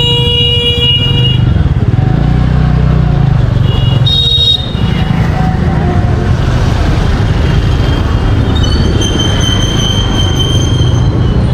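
Busy street traffic with engines running and vehicle horns honking. One horn sounds at the start for about a second, a short high one comes about four seconds in, and a longer one runs from about eight and a half seconds until near the end.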